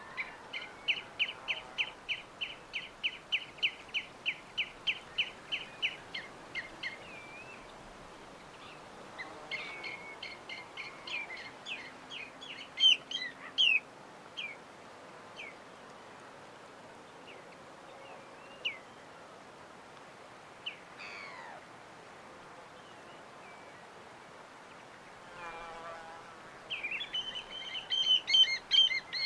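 Small birds chirping: a fast run of repeated chirps, about four a second, for the first six seconds, then scattered calls and trills, and a burst of loud, dense chirping near the end, over a faint steady hiss.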